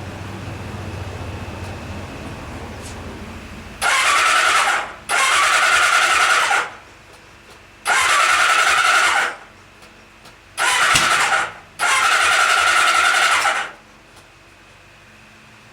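The 1976 Kawasaki KZ900's electric starter cranks its four-cylinder engine in five bursts of about a second or a second and a half each, with short pauses between them. The engine turns over but does not catch, on its first start attempt after sitting unrun since 1985.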